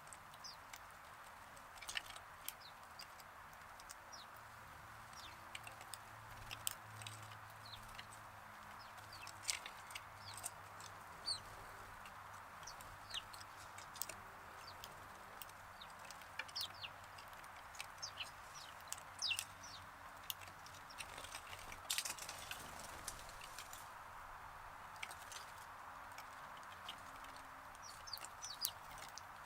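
Sparrows giving short, scattered chirps, with a few sharp clicks among them, over a steady background hiss.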